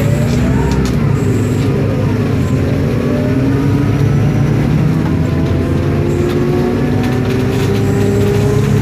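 Inside a 2012 Isobus City 1200 bus: the MAN D0836 LOH diesel engine running under way, with the ZF Ecomat automatic gearbox and differential whining in several tones that rise slowly as the bus gathers speed.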